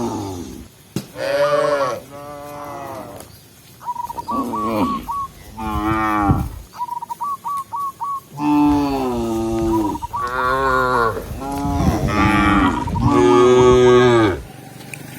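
Cattle mooing: a string of moos, short calls in the first half and longer, overlapping calls from several animals in the second half.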